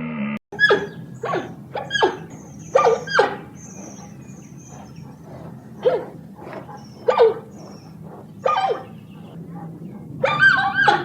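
An animal giving short, sharp barking yelps, each falling in pitch, spaced irregularly over several seconds. A rapid cluster of calls comes near the end.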